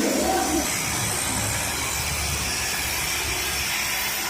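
Steady loud hissing noise, with a voice briefly at the very start.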